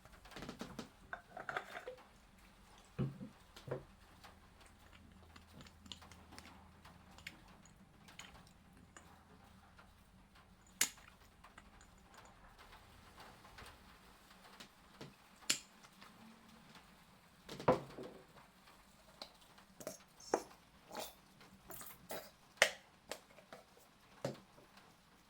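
Scattered light clicks, taps and knocks of household objects being handled, a few sharper clicks standing out, over a quiet room.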